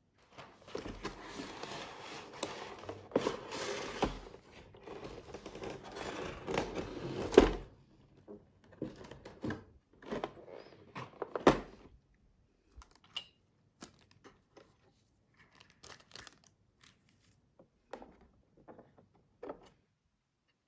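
Packaging being handled, likely a diecast model plane being unboxed: crinkling and rustling of plastic or paper for about seven seconds with a few knocks, the sharpest at the end of it. Then scattered light clicks and taps.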